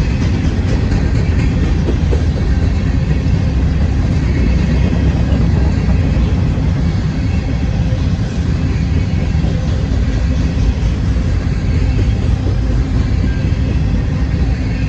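Norfolk Southern freight train passing close by, a loud steady rumble that holds without a break.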